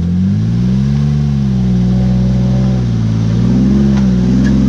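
Jeep Wrangler's engine revving up and down under load as it crawls up a rutted mud trail in four-wheel drive. The pitch rises about a second in, dips, and climbs again near the end.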